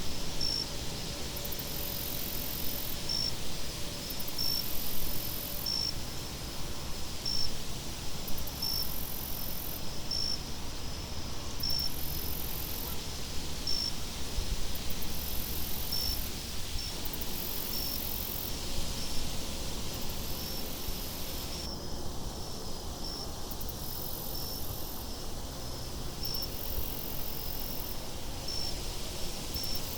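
Crickets chirping in a steady, evenly spaced rhythm, with a higher insect trill pulsing on and off in spells of about a second and a half, over a low, steady wind rumble.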